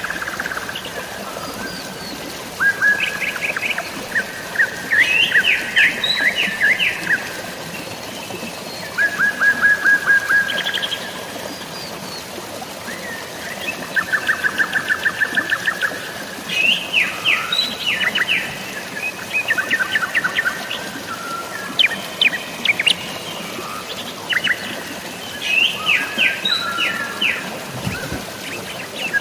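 Songbirds chirping and trilling in quick repeated series, one burst after another, over a steady hiss of rain and running water.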